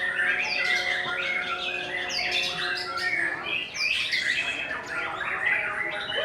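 Many caged songbirds singing at once in a songbird contest: a dense, unbroken tangle of overlapping chirps, trills and squawks.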